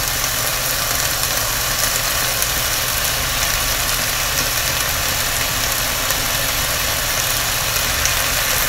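Sliced pork and onions sizzling steadily in a frying pan while a thick ginger-soy sauce is spooned in.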